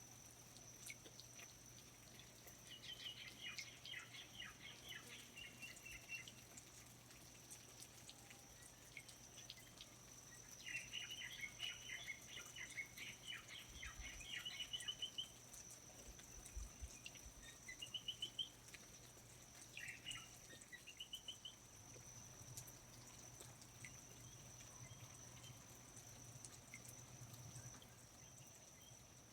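Faint rainforest ambience: a bird sings several trilled, chattering phrases over a steady high-pitched insect drone, with scattered light drips.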